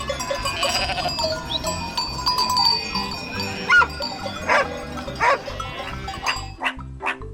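Bleating calls of a farm animal, a few short calls in the middle, over background music with a steady bass line.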